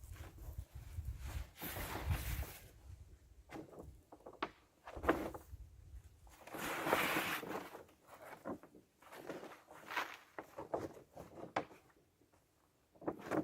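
Irregular rustling and scraping with scattered light knocks, from handling a covering material over the ground of a garden bed. The longest rustle swells about halfway through.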